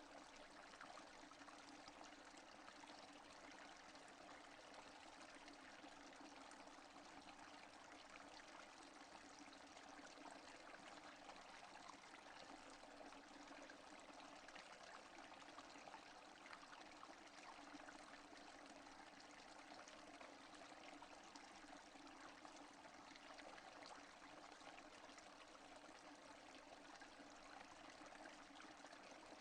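Steady, faint rainfall: an even hiss of many small drops that doesn't change or break.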